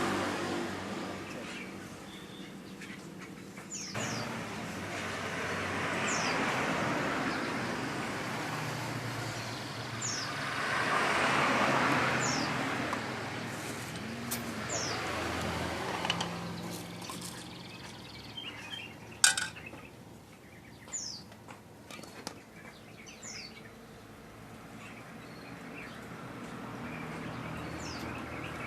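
A small bird giving short, high, falling chirps every couple of seconds, over the rising and fading noise of passing vehicles. A single sharp click comes about two-thirds of the way in.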